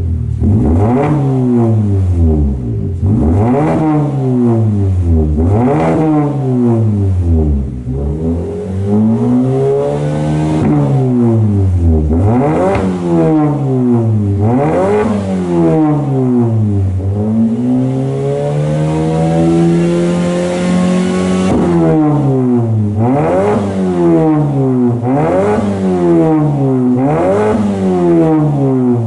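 Mazda3 1.5 L four-cylinder engine through a one-off straight-piped rear exhaust section, revved again and again. The revs come in quick blips about every two seconds at first, then in longer climbs, one held and rising for several seconds in the middle, then quick blips again near the end.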